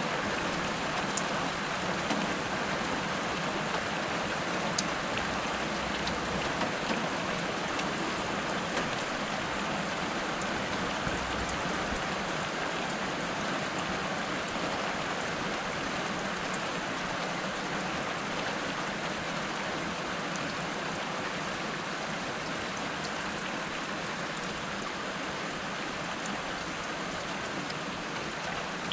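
Steady rain falling on the street and roofs, with occasional sharp ticks of drops landing close by.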